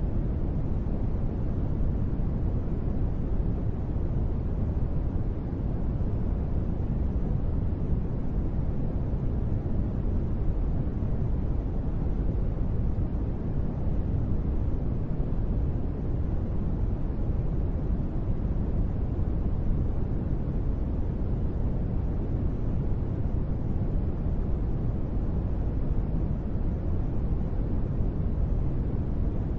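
Steady rain white noise for sleep, deep and muffled, with no separate drops, thunder or changes in level.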